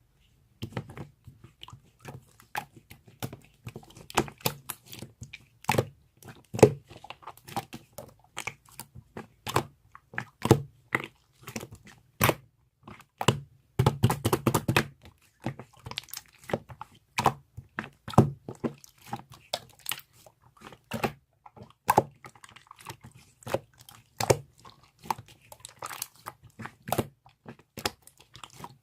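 A long run of irregular, crisp crunching and crackling sounds, with a dense flurry about halfway through.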